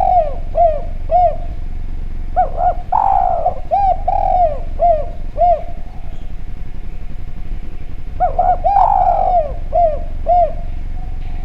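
Spotted dove (derkuku/tekukur) cooing loudly: phrases of short, arched, evenly spaced coos, each with one longer, rougher note, with a pause of about two seconds between the phrases.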